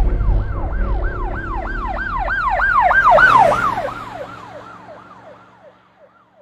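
Siren in a fast yelp, sweeping up and down about three times a second. It grows louder, then fades away, dropping slightly in pitch as it goes. A low rumble dies out in the first second.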